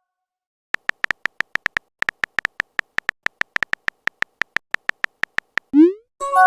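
Chat-app sound effects: a run of rapid electronic keyboard typing ticks, about six a second, for about five seconds, then a short rising chirp as a message is sent, and a ringing notification chime near the end.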